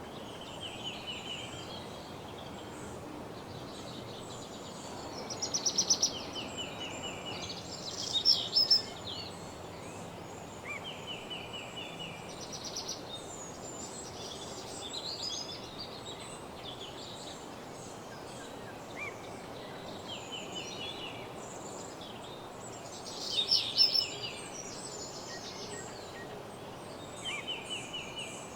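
Several songbirds singing in woodland, with short repeated trills and brighter phrases overlapping throughout; the loudest phrases come about 6, 8 and 24 seconds in. Under them runs a steady low background hiss.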